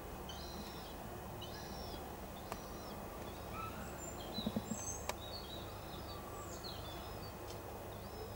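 Small birds chirping with short, repeated high calls over a steady low background rumble, with a couple of faint clicks.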